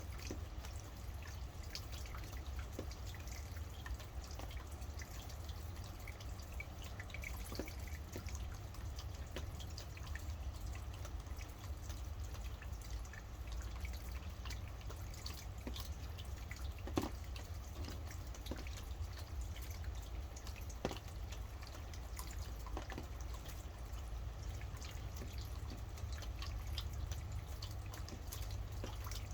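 Steady rain with individual drops pattering and dripping irregularly, a few heavier drops standing out, over a constant low rumble.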